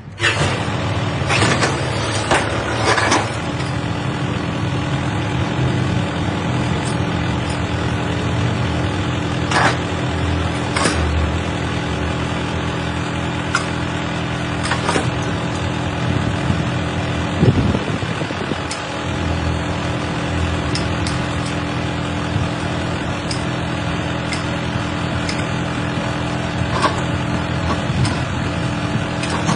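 A heavy machine's engine running steadily throughout, with scattered metal knocks and clanks, several close together in the first few seconds.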